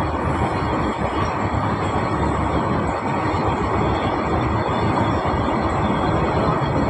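Freight train of open-top box wagons rolling past, a steady noise of wagons and wheels on the rails.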